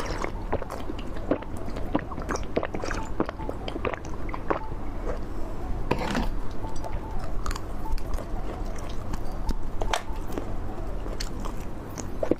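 Candy being bitten and chewed close to the microphone, with many irregular sharp crunches.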